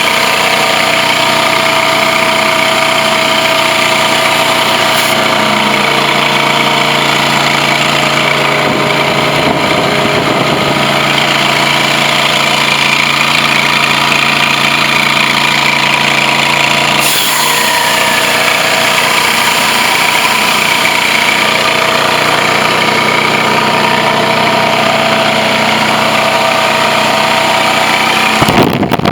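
Blue Baron Compact 45 truck-mount carpet extractor running at steady speed, a loud, even machine drone with many held tones. The low notes of the drone change about six seconds in and again about seventeen seconds in, and there is a brief noisy burst near the end.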